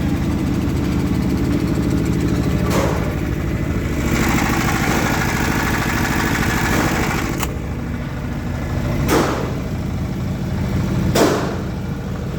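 Diesel engine of a 10 kVA single-phase silent generator running steadily, with a few brief sharp sounds over it.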